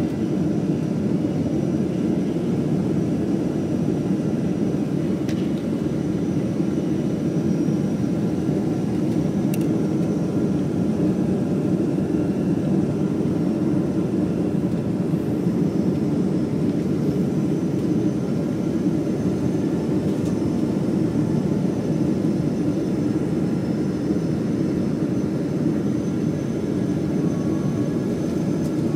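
Steady cabin noise inside a Boeing 777 on approach: a deep, even rush of engine and airflow noise that does not change.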